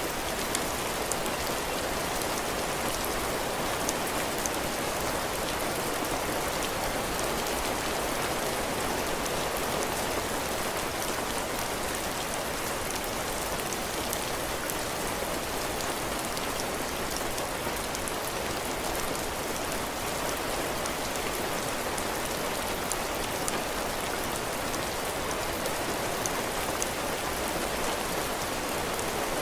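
Heavy rain falling steadily on a cabin porch's roof and floor, a constant hiss of drops with scattered small ticks of individual raindrops.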